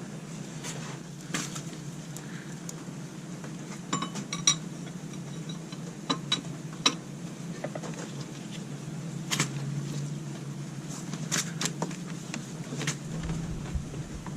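Scattered metallic clicks and clinks of a hand wrench and socket working a bolt loose on a scooter's engine, a few sharp taps at irregular intervals over a steady low hum.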